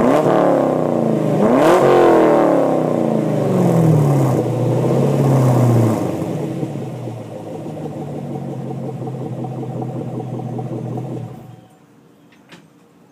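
2010 Chevrolet Camaro SS's 6.2-litre LS3 V8 with mufflers deleted, through stock cats and resonators. It is blipped twice, each rev rising sharply and falling back, then settles to a steady idle. The engine stops about eleven and a half seconds in.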